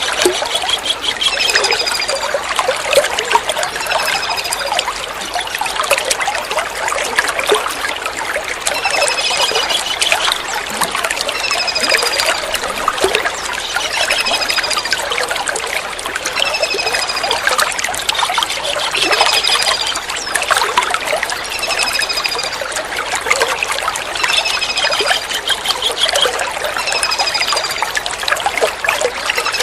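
Steady trickling water, over which a kingfisher gives short, high, thin calls every couple of seconds, now and then a brief rapid trill.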